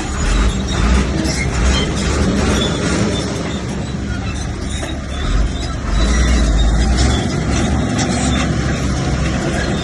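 Bulldozer's diesel engine running under load with clattering machinery noise, the low rumble swelling twice: briefly near the start and for a couple of seconds past the middle.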